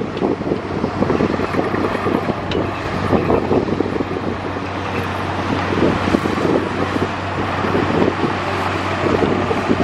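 Diesel engine of heavy earthmoving machinery running steadily under a constant low hum, with gusts of wind buffeting the microphone.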